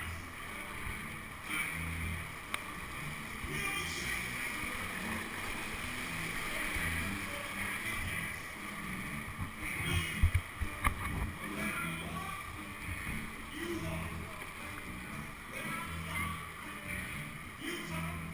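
Whitewater rushing around a kayak, with splashes and sloshing from the paddle and hull. A few loud low thumps come about ten seconds in.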